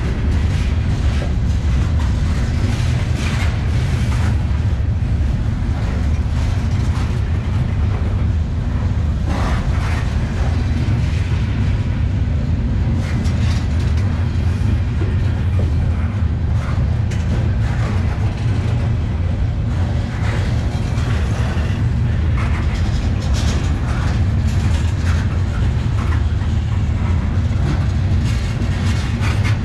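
Freight train of covered steel-coil cars rolling past close by: a steady, loud low rumble of steel wheels on the rails, with scattered clacks and clanks from the wheels and couplings.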